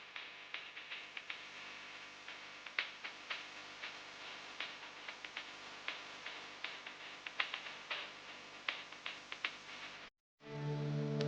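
Light, irregular clicks and taps of small hard objects, a few a second. Near the end they break off and a brief steady low-pitched hum comes in.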